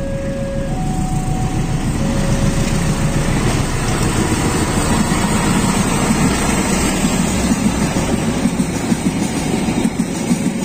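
KAI CC 206 diesel-electric locomotive passing close by with its passenger coaches: a low engine rumble that grows louder, turning to a rhythmic clatter of wheels over the rail joints in the last few seconds. A two-note alternating tone sounds over it for the first three seconds or so.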